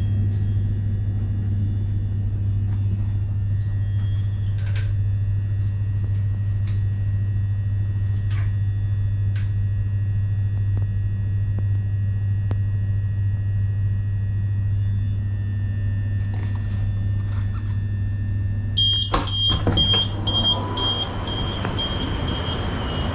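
Inside a Class 376 electric train: a steady low electrical hum with faint clicks and rattles. About nineteen seconds in come a few knocks, then a run of short high beeps, and the noise grows louder.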